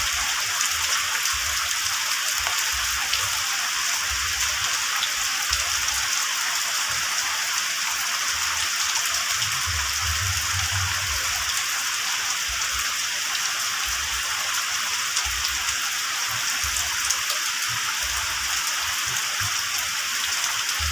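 Heavy rain falling steadily on leaves and muddy ground, an even hiss of drops.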